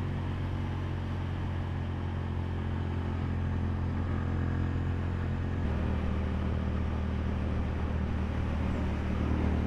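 Motorcycle engine running steadily while cruising, heard from the rider's own bike, with a light rush of wind and road noise. The engine note steps to a slightly different pitch a little over halfway through.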